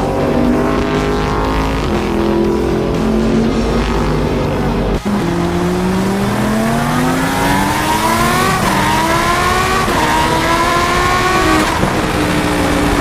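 Racing car engines at a track. For about five seconds they run at a steady pitch. Then one car accelerates hard through the gears, its pitch climbing and dropping back at three upshifts.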